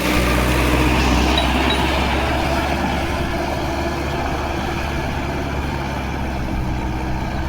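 Sonalika Tiger 60 tractor's common-rail (CRDi) diesel engine running steadily at a constant speed.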